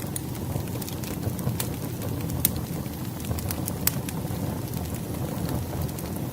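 Wood fire burning: a steady low rumble of flames with scattered sharp crackles and pops from the logs, the loudest about two and a half seconds in.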